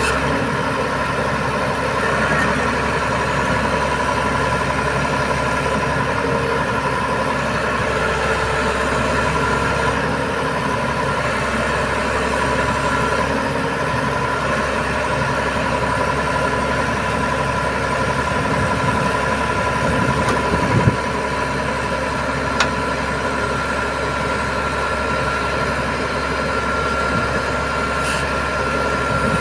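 Heavy truck's diesel engine running steadily, with a steady whine over it. A couple of short knocks come about two-thirds of the way through.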